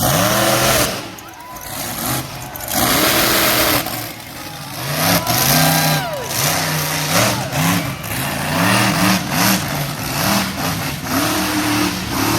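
Monster truck engine revving hard, its pitch climbing and dropping again and again in quick throttle blips, with loud full-throttle surges several times.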